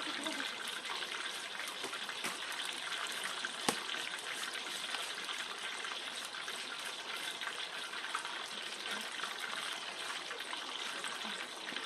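Hot oil sizzling steadily as a whole chicken deep-fries in a pot over a wood fire, with one sharp pop a little under four seconds in.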